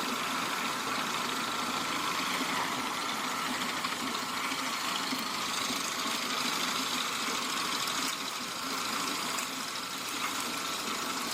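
Wood chipper running: a steady, noisy engine and machine sound that carries on without a break, dipping slightly in level near the end.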